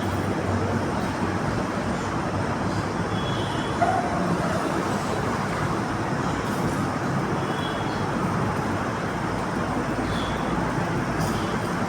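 Steady road-traffic noise, an even rushing hum of passing vehicles, with a few short, faint high chirps.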